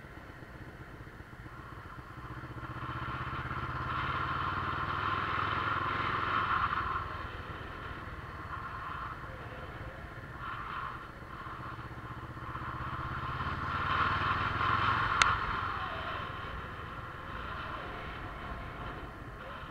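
Motorcycle engine running while riding, its sound building and easing off twice as the throttle is opened and closed. There is a single sharp click about fifteen seconds in.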